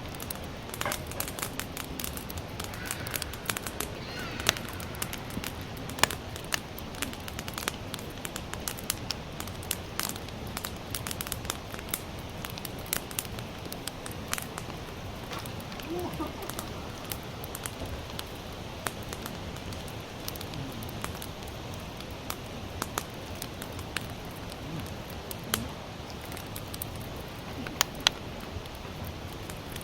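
Campfire of sawtooth oak (kunugi) firewood crackling, with frequent irregular sharp snaps and pops over a steady low background, a few louder pops near the end.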